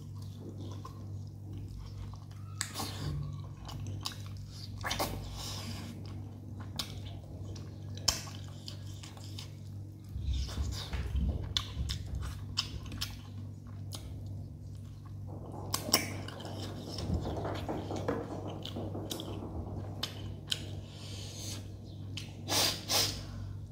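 Close-miked mouth sounds of a person eating rice and chicken by hand: steady chewing with wet smacks and clicks, and a couple of louder bites near the end. A low steady hum runs underneath.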